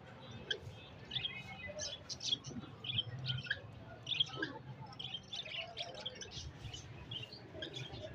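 Budgerigars chirping and chattering: many short, high chirps in quick, irregular succession over a low steady hum.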